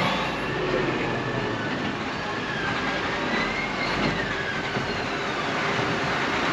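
Tracked digger on the move, its engine running under steady clanking from the steel tracks. A faint squeal rises and falls about halfway through.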